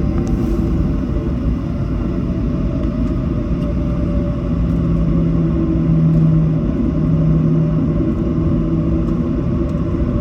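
Boeing 737 cabin noise on the ground after landing: the CFM56 jet engines and airframe give a steady rumble, with a low hum that comes in about four seconds in and fades again near the end.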